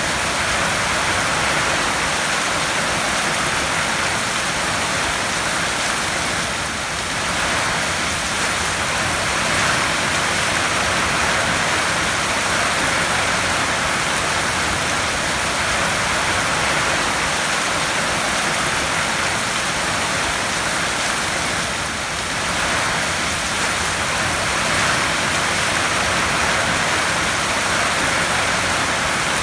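Heavy rain falling on a tin roof: a steady, dense hiss that dips slightly in loudness twice.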